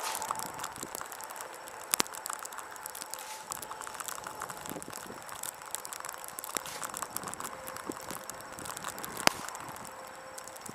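Snow crunching and crackling as it is dug and cleared from a sidewalk, with two sharp knocks, one about two seconds in and one near the end.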